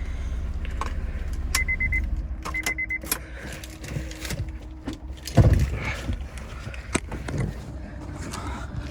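Sounds from a 2007 Honda S2000 as it is closed up: a low steady rumble stops about two seconds in, then two short high electronic beeps, small clicks, and a heavy low thud a little past five seconds in.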